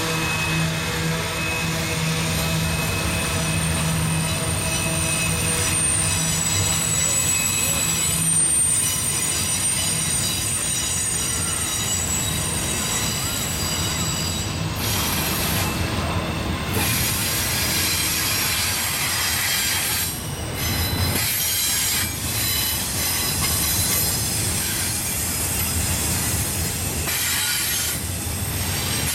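Freight train of double-stack intermodal well cars rolling past on a sharp curve, the wheel flanges squealing in several steady high-pitched tones over the rumble and clatter of the wheels. A low hum fades out over the first several seconds.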